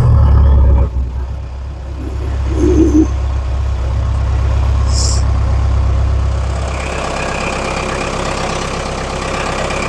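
Mahindra Roxor's four-cylinder diesel engine idling steadily just after catching on a jump pack, its own battery dead. It settles slightly about a second in, with a short brief sound near three seconds and a quick hiss about five seconds in.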